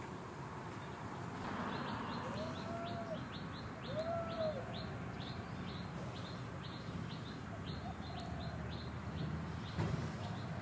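A bird chirping rapidly and repeatedly: short, high, falling notes about three or four a second. Lower down, two short arched whistles come about two and four seconds in.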